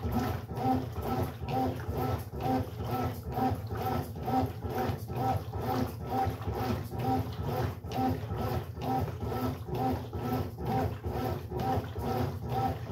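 Brastemp Sexto Sentido 8 kg washing machine agitating its wash load in water. The motor whirs and the water swishes in a steady rhythm, about three strokes every two seconds.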